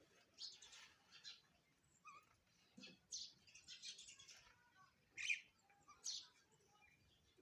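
Sparrows chirping: short, high chirps in irregular clusters, the loudest about five seconds in.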